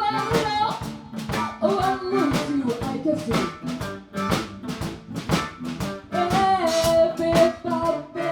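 Live blues band playing over a steady drum-kit beat, with a lead line bending and holding its notes.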